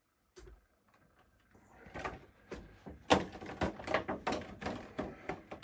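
Hands working a scale model truck free of its plastic packaging: a quick run of sharp clicks and rustles of plastic that starts about a second and a half in and gets busier and louder from about three seconds in.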